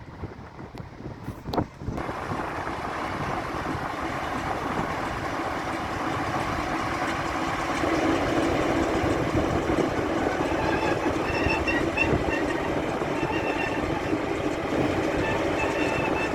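DA 060 diesel-electric locomotive working during shunting: a sharp click near the start, then engine and running noise that grows louder over the next several seconds and settles into a steady loud rumble. Faint high squeals come and go in the second half.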